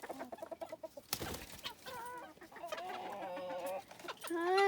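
Poultry calling: a quick run of clucks, a longer drawn-out call in the middle, and a loud call that rises and falls near the end. A brief rustle about a second in.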